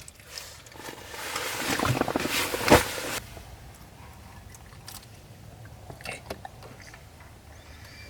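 Close-up biting and crunching of crunchy food, with a sharp crack near the middle, then it goes quiet apart from a few small clicks.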